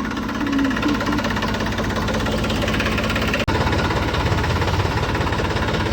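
Diesel tractor engine idling with a steady, even chug. It breaks off for an instant about halfway through, then carries on with a slightly heavier low rumble.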